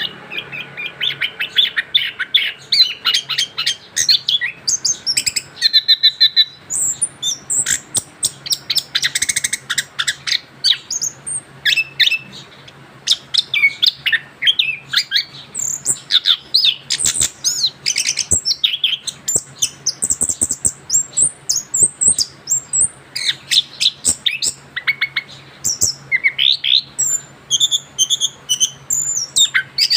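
Young orange-headed thrush, fresh from its moult, singing in a long continuous run of quick, varied chirps and whistles with only brief pauses. A faint steady low hum runs underneath.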